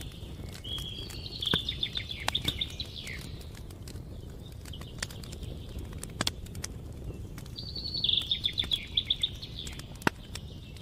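A small songbird sings two quick trilled phrases, one about a second in and one near the end, over the steady crackle of a campfire with a few sharp pops.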